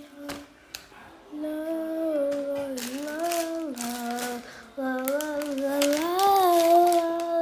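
A child's voice singing a slow melody in long held notes without clear words, starting about a second and a half in.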